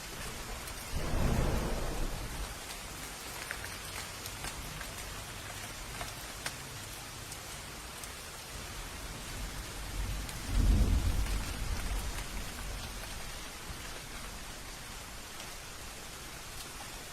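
Steady rain with thunder: a deep rumble about a second in and a louder one about ten seconds in, each fading over a couple of seconds over the continuous hiss of the rain.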